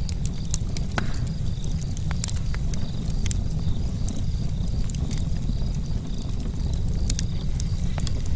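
Camp charcoal fire crackling, with sharp irregular pops and snaps, one stronger about a second in, over a steady low rumble.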